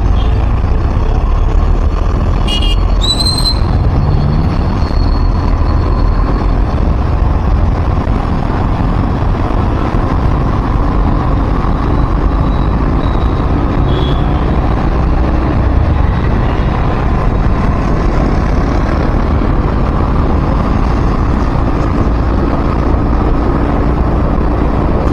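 Steady road noise of a vehicle moving through heavy city traffic, with a strong low rumble throughout. About three seconds in, a short high-pitched sound from the surrounding traffic rises briefly and fades over a few seconds.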